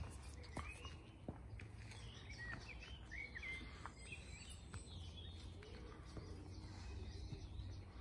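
Faint outdoor ambience with small wild birds chirping now and then, over a low steady rumble and a few soft clicks.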